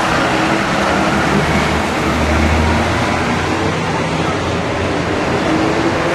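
Fire engines pulling out on a call-out, their heavy diesel engines running loud, with a low rumble that swells about two to three seconds in.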